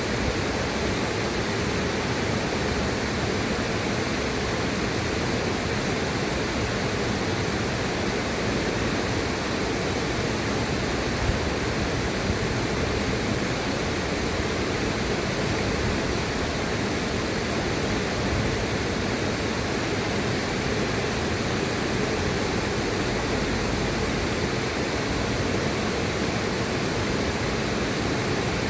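River water rushing in a steady, even hiss with no breaks or distinct splashes.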